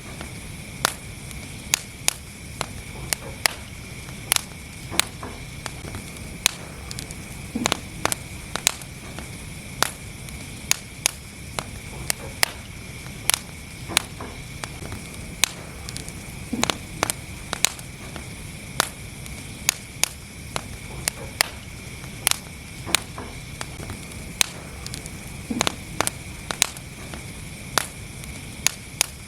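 Wood fire in a fireplace crackling: irregular sharp pops, often a couple a second, over a steady hiss, with a few louder, deeper pops among them.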